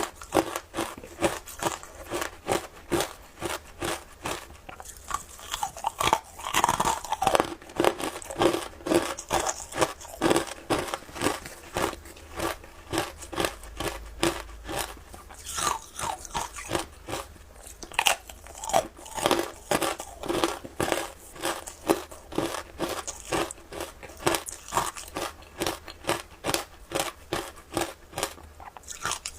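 A person chewing frozen matcha ice close to the microphone, with a continuous run of crisp crunches and cracks, about three bites a second.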